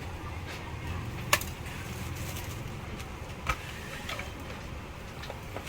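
A few sharp clicks and knocks of plastic parts being handled while a kids' ride-on electric motorbike is assembled, the loudest about halfway through, over a steady low hum.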